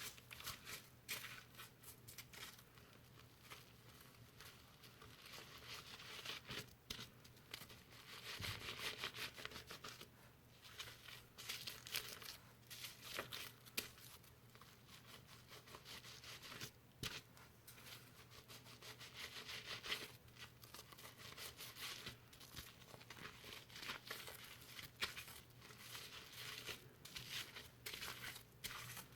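Close-up crackling and rustling of shampoo lather as fingers slowly scrub and squeeze foamy hair, a soft, irregular crinkly sound with louder stretches about six, twelve and twenty seconds in.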